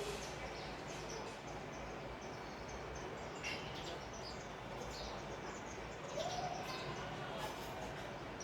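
Sparrows chirping in short, scattered calls over steady background noise.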